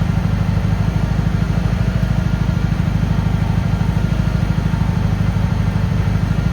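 Cub Cadet 782 garden tractor's single-cylinder engine turning over with a steady, even rapid beat in the cold.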